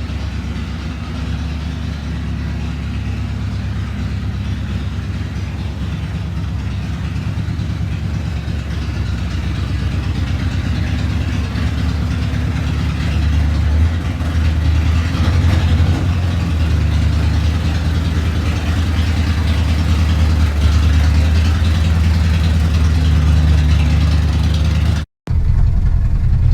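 1981 Chevy K10 pickup's engine running steadily as the truck is driven, a low drone with road noise that grows a little louder about halfway through. A brief dropout near the end.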